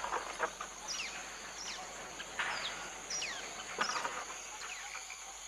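Lesser kiskadees giving scattered short scolding calls, each a quick note sliding downward in pitch, over a steady high drone of insects.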